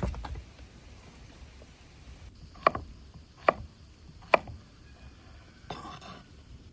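Three sharp knocks about a second apart, then a short scraping rustle near the end.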